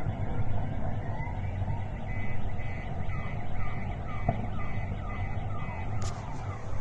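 Car alarm going off, cycling through a repeating pattern of short pitch glides about two or three times a second, over a loud low rumble.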